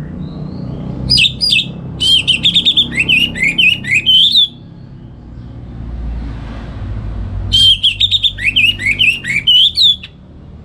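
Orange-headed thrush singing two long phrases of quick, varied whistled notes, the second starting about seven and a half seconds in.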